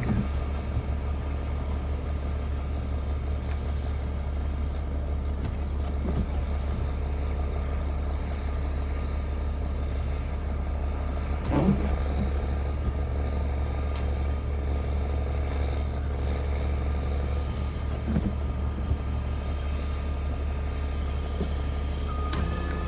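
Diesel engine of a snowcat running with a steady low drone, which sounds like a Cummins engine. There is a single knock about halfway through and a brief high beep near the end.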